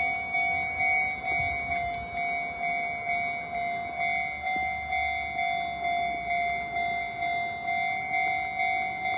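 Railway level-crossing warning bell ringing steadily, a bright electronic ding repeating about twice a second.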